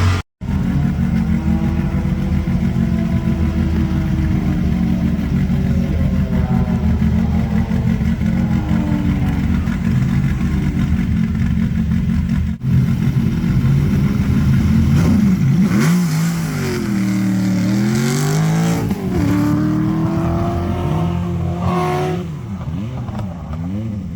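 Historic rally car's engine running at a high, slightly wavering idle, then revved up and down several times in quick swings in the second half, as at a stage start line.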